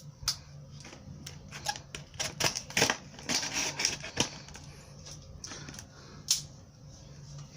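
Scattered clicks, taps and rustling of the replacement T&P relief valve and its packaging being handled and opened. The sounds are busiest in the middle, with one sharp click about six seconds in, over a faint steady low hum.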